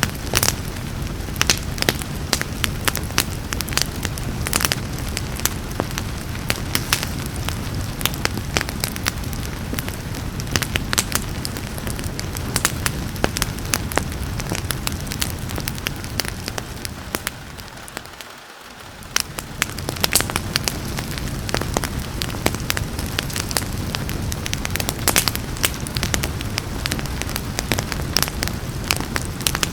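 Wood fire crackling, with frequent sharp pops, over a steady hiss of rain. The whole mix briefly fades down and comes back up about two-thirds of the way in.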